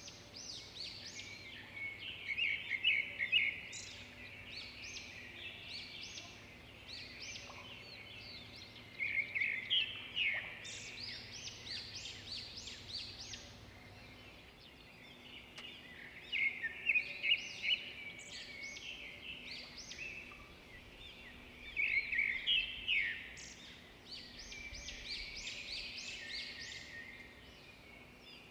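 Birds chirping and calling in bursts of quick high notes, a few seconds apart.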